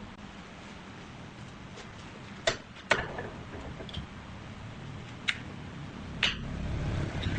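Four sharp knocks over a low steady hum, the hum growing louder near the end.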